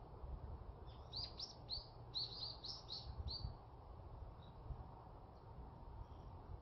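A small bird singing a quick run of about ten short, high chirps for a couple of seconds, then a few faint single notes.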